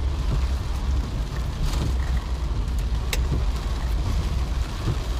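Steady low rumble of a car driving in heavy rain, with a short click about three seconds in.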